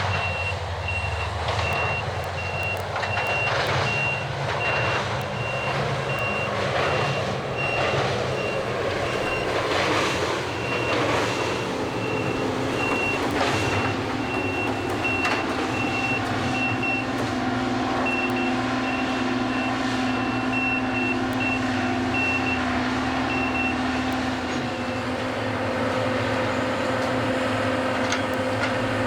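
Rapid, steady beeping of a travel warning alarm on a track renewal train's moving gantry crane, stopping near the end, over the steady running of the train's diesel machinery. Knocks and clanks from the handling of ties come through during the first half.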